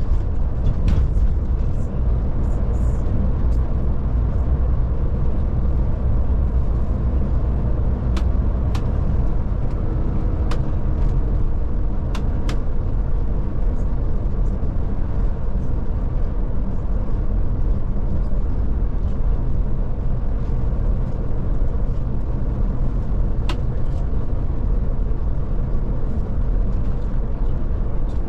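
Scania Touring coach driving along, heard from inside the cabin: a steady low engine drone and road noise, with a few scattered sharp clicks or rattles.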